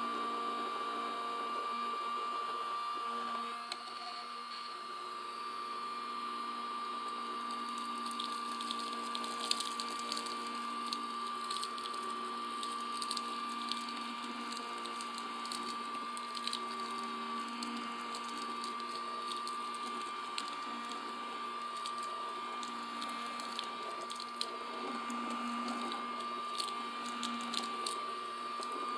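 Small USB-powered vacuum cleaner with a modified motor running with a steady high-pitched whine. From about eight seconds in, scattered small ticks sound as tobacco bits are sucked up and shredded in the fan.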